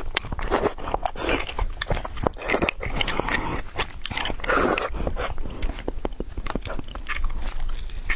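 Close-up eating sounds: biting and chewing with many short wet mouth clicks and smacks.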